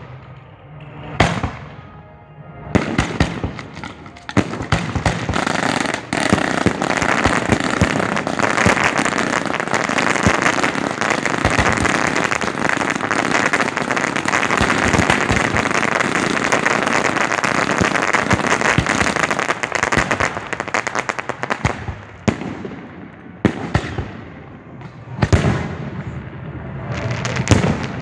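Display fireworks fired at close range. A few single loud bangs come first, then about eighteen seconds of dense rapid-fire bangs and crackling with no gaps. Separate booms return near the end.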